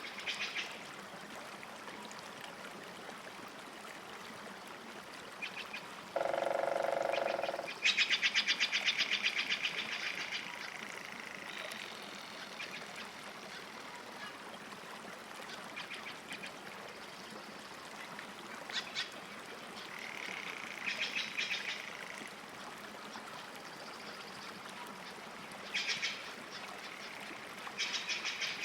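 Birds calling over a steady soft lakeside hiss. A single lower call comes about six seconds in, then a fast run of repeated high notes lasts a couple of seconds, and shorter chattering bursts follow every few seconds.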